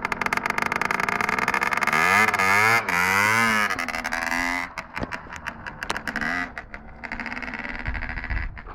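Derbi Senda DRD Limited 50cc two-stroke engine with a Ninja carbon exhaust being revved: rapid throttle blips rise and fall about two to three and a half seconds in, then it drops back to a rough idle.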